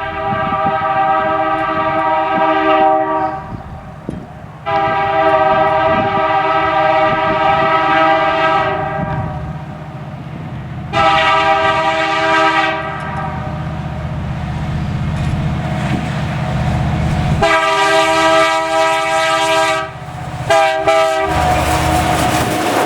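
Locomotive multi-chime air horn sounding a chord in a long, long, short, long crossing pattern, the last blast broken off and tapped once more, over the steady low rumble of the passing train.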